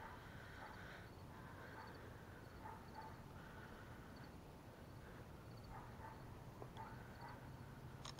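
Near silence: faint outdoor ambience with small, high animal chirps repeating every half second to a second.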